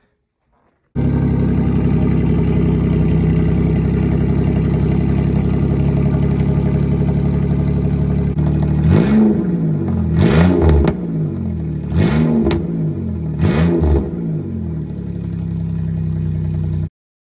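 Buick 3800 V6 idling through a Cherry Bomb glasspack that replaces the stock muffler, with the exhaust exiting straight out the side. About halfway through it is revved in four quick blips, each rising and falling, then it settles back to idle before the sound cuts off suddenly.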